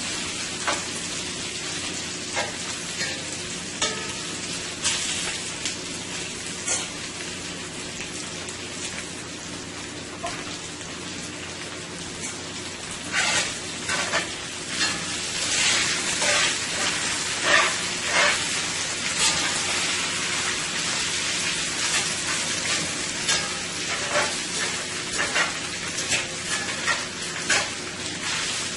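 Thinly sliced chicken frying in oil in a 14-inch skillet: a steady sizzle with scattered sharp crackles and clicks, busier and louder in the second half.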